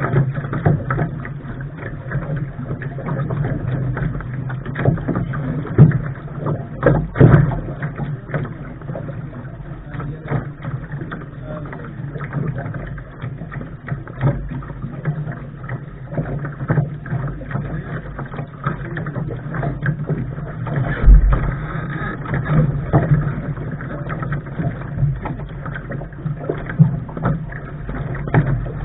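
A Lark sailing dinghy under way: water rushing and slapping against the hull with a steady low rumble, broken by frequent irregular knocks and thumps.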